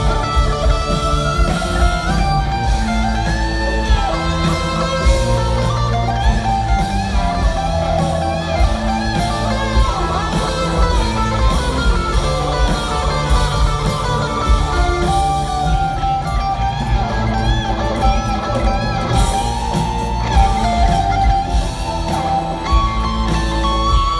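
Rock band playing an instrumental break without vocals: a guitar carries a melodic lead line with gliding, bent notes over a steady bass.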